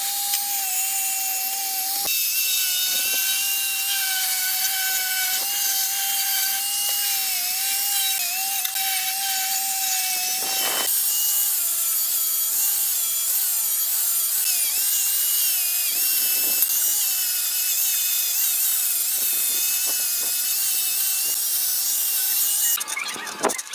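A handheld power tool running continuously while working on metal parts, with a steady whine whose pitch dips and wavers slightly as it is pressed on. It cuts off near the end.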